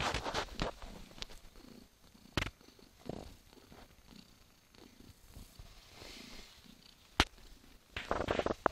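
Mother cat purring while nursing her kittens, with bouts of rustling near the start and end and a couple of sharp clicks.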